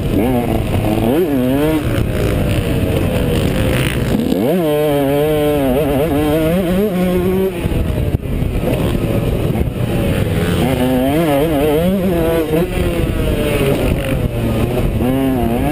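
Dirt bike engine at full throttle on a motocross track, its pitch constantly rising and falling as the rider accelerates, shifts and backs off, with a sharp rev-up about four seconds in.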